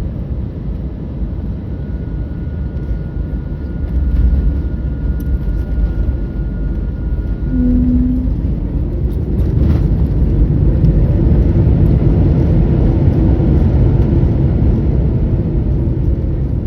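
Airbus A321neo cabin noise during landing: a steady low rumble of engines and airflow, a single thump about ten seconds in that fits touchdown, then a louder rumble with a rising engine whine as the rollout and reverse thrust begin. A brief low tone sounds just before the thump.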